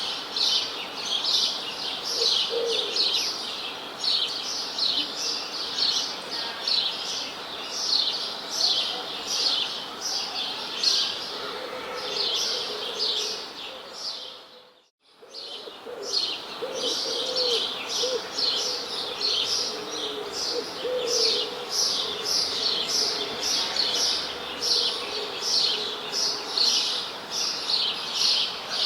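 A chorus of small birds chirping busily, with quick high chirps several times a second and a lower, softer call in the middle stretch. About halfway through the sound fades out for about a second and comes back.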